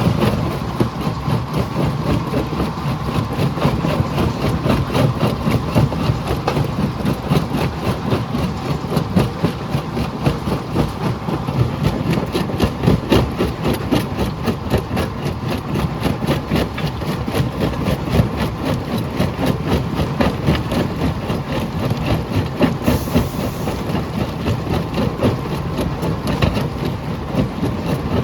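Jaw crusher running and crushing rock: a steady heavy machine rumble with a dense, continuous clatter of stone breaking and knocking.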